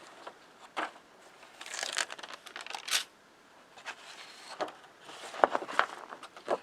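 A paper decal sheet being handled, crinkling and rustling in a string of short, irregular bursts.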